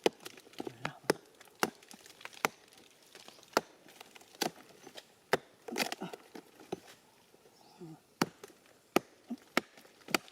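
Sharp, irregular chopping blows into wood, about one every half second to a second, as a tree is cut open.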